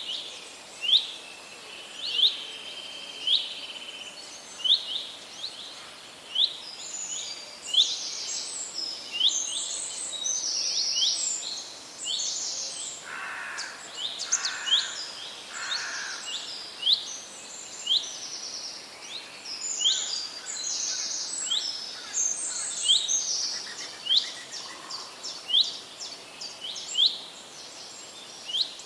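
Several wild birds singing. One repeats a short rising whistle about once a second, while others add dense, buzzy high chatter through the middle, along with a few lower calls.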